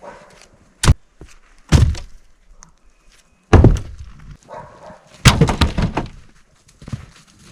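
Heavy wooden thunks as cut rounds of dry jack pine are tossed onto a load of firewood: four separate knocks, the last a clattering tumble lasting nearly a second.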